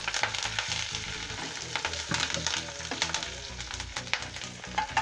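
Curry leaves and green chillies sizzling in hot oil in a nonstick kadhai on low heat, with many quick crackles and pops, as a silicone spatula stirs them.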